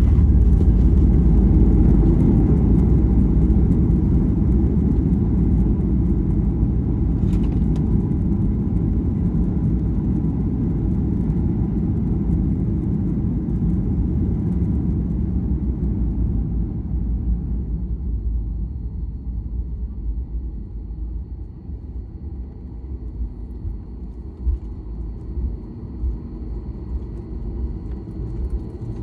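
Cabin noise of a Southwest Airlines Boeing 737 rolling out after touchdown: a loud, low rumble of wheels and engines that slowly fades over about twenty seconds as the jet slows toward taxi speed.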